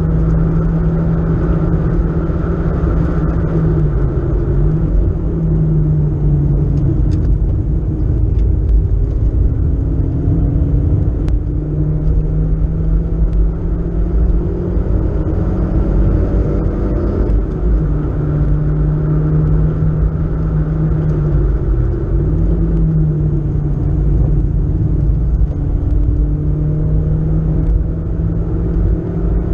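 BMW E36 318is four-cylinder engine pulling hard at high revs, heard from inside the cabin over tyre and road rumble. The engine note dips briefly three times and climbs back.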